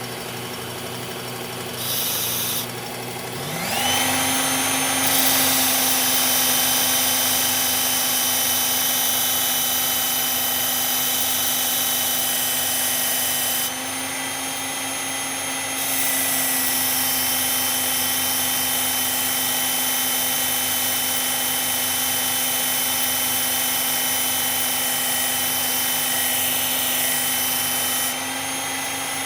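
Electric belt knife sharpener's motor running with a steady whine, its pitch climbing about three and a half seconds in as it comes up to speed. The abrasive belt grinds against the steel blade, and the noise lightens briefly about halfway through and again near the end.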